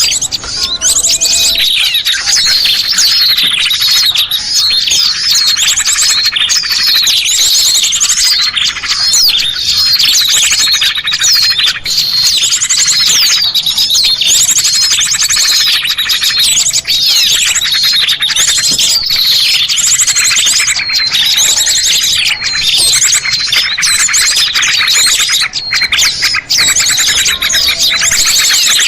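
Recorded lure call of many small songbirds chirping and twittering together in a dense, continuous chorus of rapid high trills and chips, used to draw wild small birds down.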